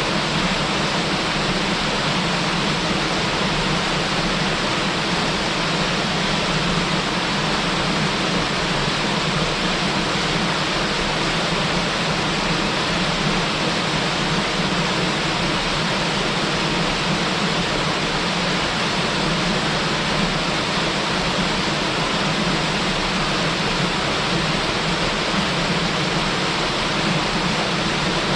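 Waterfall pouring steadily: a constant, even rush of falling and splashing water.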